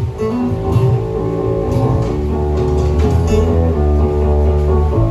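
Live band playing during a sound check: guitar notes and chords over a strong, steady bass line.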